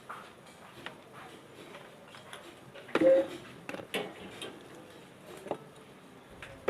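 Scattered clicks and knocks of small hard table fan parts being handled and fitted together, with a louder short clatter that rings briefly about three seconds in and further knocks about a second and two and a half seconds later.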